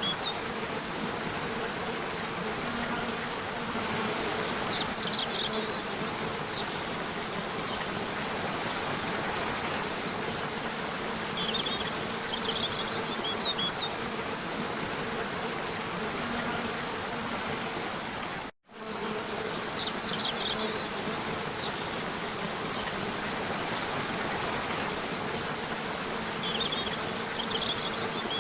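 Nature ambience of insects buzzing in a steady hum over a constant rushing, water-like hiss, with short clusters of high chirps every several seconds. The sound cuts out for a split second about two-thirds of the way through, then resumes.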